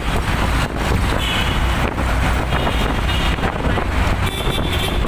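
Wind buffeting the microphone over a steady low rumble, typical of traffic or a vehicle.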